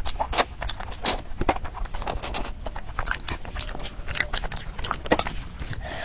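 Close-up eating sounds: irregular crunching and chewing of rice and curry with crispy fried chilli, a quick run of sharp clicks and crackles.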